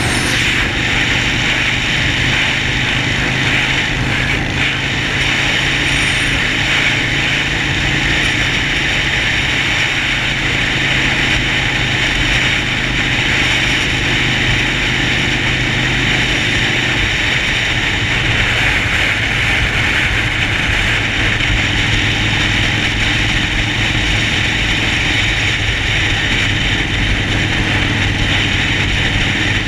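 Harley-Davidson Sportster Forty-Eight's air-cooled V-twin running steadily, with a slight change in its note about seventeen seconds in.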